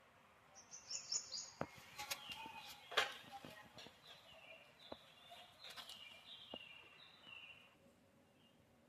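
Small birds chirping over and over in short, high, falling notes, with a few sharp clicks or taps in between, the loudest about three seconds in.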